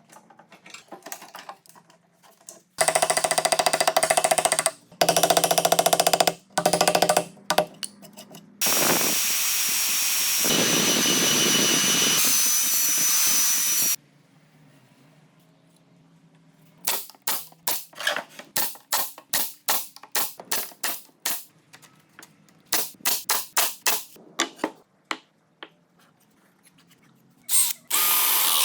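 Power tools working wood: a pitched motor runs in several short bursts, then a steady stretch of machine noise. After a pause comes a run of quick, sharp taps, and a last burst of machine noise starts near the end.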